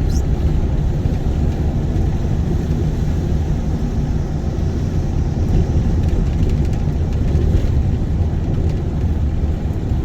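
Car cabin noise while driving on a rough, bumpy road: a steady low rumble of tyres and engine.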